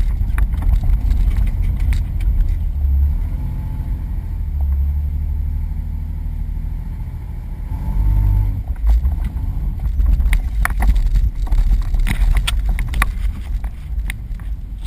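Jeep running on an off-road trail: a steady, heavy low engine rumble, with a rapid run of knocks and clatters in the second half.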